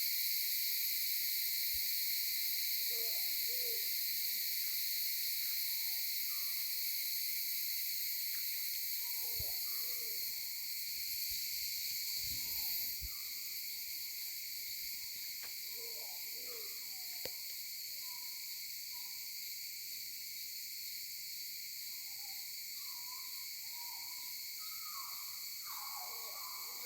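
Steady high-pitched drone of insects, with a bird's low hooting calls coming in pairs every several seconds and more calls crowding in near the end.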